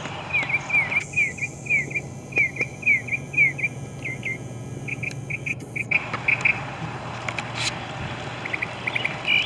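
A small bird chirping in a rapid series of short, high chirps, about three a second, breaking off about six seconds in and resuming briefly near the end.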